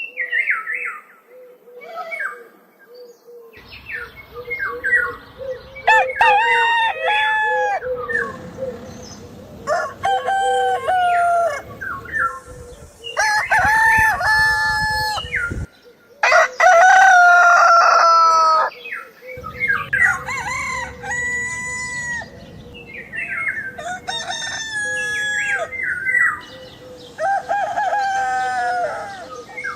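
Roosters crowing, one cock-a-doodle-doo after another, about seven crows, with a steady faint hum beneath.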